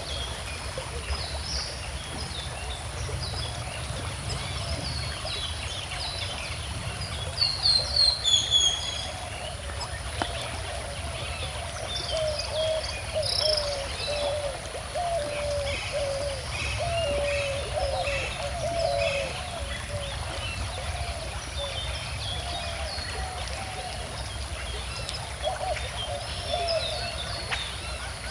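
A calm river flowing steadily while several birds chirp and sing over it, with a louder burst of calls about eight seconds in. From about halfway, a lower-pitched call repeats many times in quick short notes.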